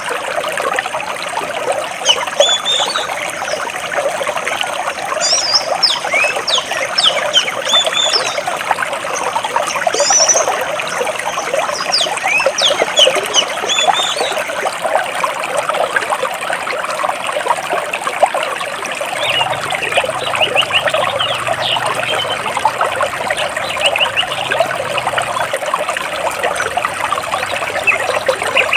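Stream water splashing and burbling steadily over rocks, with birds chirping: many short, high chirps, thickest in the first half, and fewer, lower chirps later.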